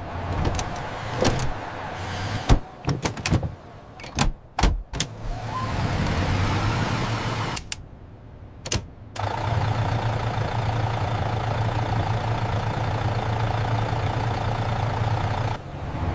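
Several vehicle door knocks and clicks, then a vehicle engine running steadily with a low hum. The engine drops out briefly around the middle and cuts off suddenly near the end.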